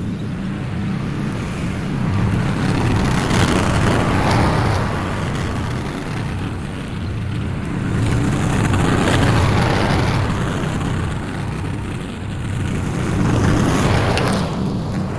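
Small petrol engine of a yard tool running steadily, its level swelling and easing every few seconds.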